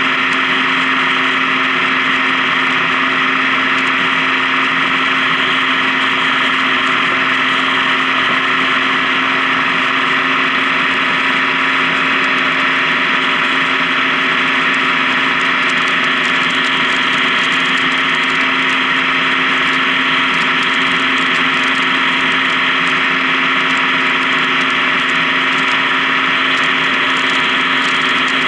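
Honda Gold Wing touring motorcycle running at a steady cruise, an even drone that holds constant throughout with no shifts or revving.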